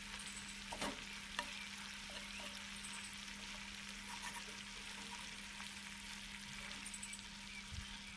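Food sizzling on a grill net over a small campfire, a steady hiss with a few sharp crackles about a second in.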